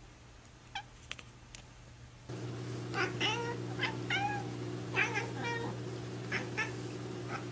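A domestic cat meowing in a quick run of short meows, starting a couple of seconds in, over a steady low hum.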